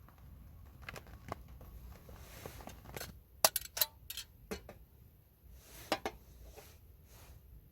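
Tableware being handled: a series of short, hard clicks and knocks, with the sharpest cluster about halfway through and another pair near the end.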